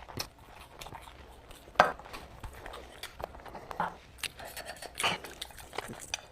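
A person eating close to the microphone: chewing and wet mouth sounds with scattered sharp clicks, the loudest about two seconds in.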